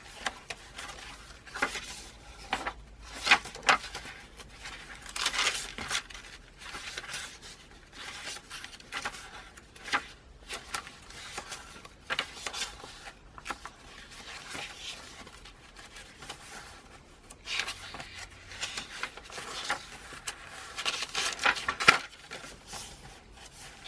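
Paper pages of a handmade junk journal being turned and handled, an irregular series of short rustles and flaps.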